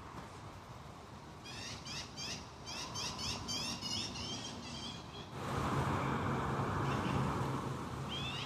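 A small bird sings a rapid series of high, sweeping chirps, about four a second, for a few seconds. Then a louder, steady rushing noise with a low hum sets in, and one more chirp comes near the end.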